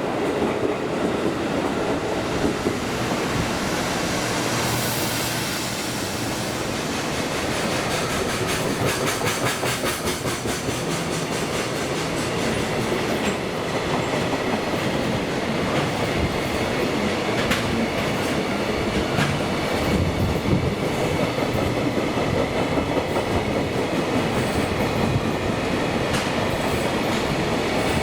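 Container freight train hauled by an EF210 electric locomotive running past, its wheels clacking in a steady rhythm over the rail joints, with a continuous rolling rumble.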